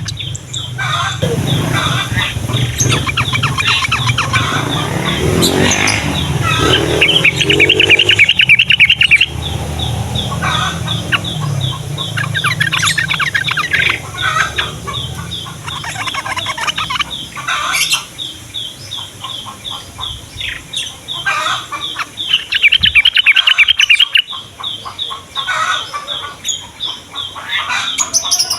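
Yellow-vented bulbuls (trucukan) calling in repeated bursts of rapid chattering notes, with a fast, even series of high ticks running underneath.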